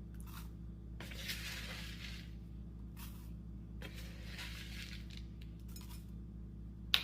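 A metal spoon scooping rolled oats and tipping them into the banana-and-egg mix: soft rustling pours with light clinks of the spoon against the dish, over a steady low hum.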